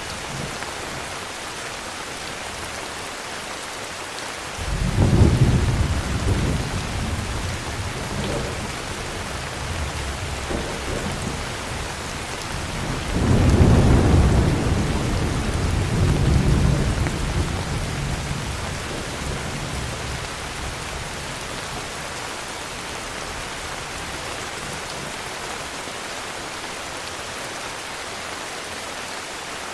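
Heavy rain falling steadily, with two low rolls of thunder: one a few seconds in, and a louder one near the middle that rumbles on for several seconds before fading.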